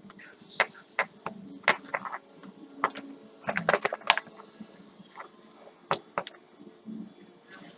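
Hands handling packaging and paper items of an unboxing: an irregular run of sharp clicks, taps and crinkles, busiest about three to four seconds in.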